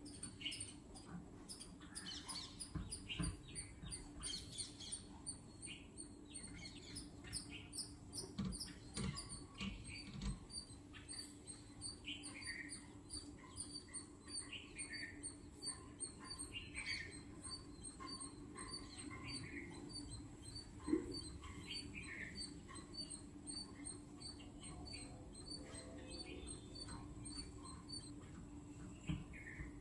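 Birds calling: short falling calls repeat about every two seconds over a constant patter of high, quick chirps, with a steady low hum underneath. A single knock sounds about two-thirds of the way through.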